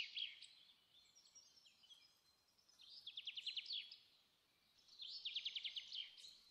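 Faint bird song: a quick trill of repeated chirps, heard three times a couple of seconds apart.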